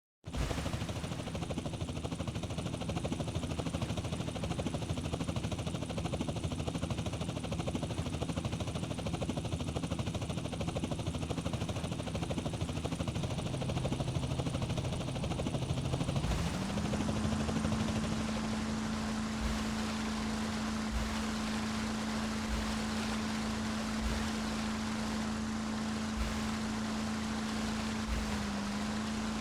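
Motorboat engine running under a steady rushing noise. About halfway through, its pitch rises as the throttle is opened, then holds steady.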